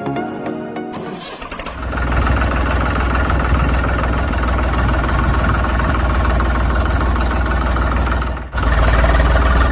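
Engine starting about a second in, then running loud and steady with a deep rumble. It cuts out briefly near the end and comes straight back.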